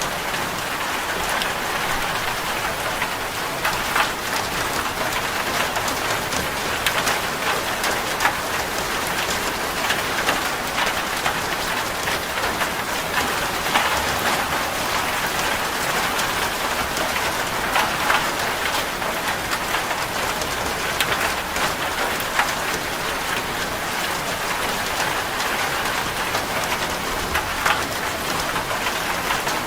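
Steady rain drumming on a corrugated zinc roof, a dense even patter with many individual drops ticking sharply on the metal sheets.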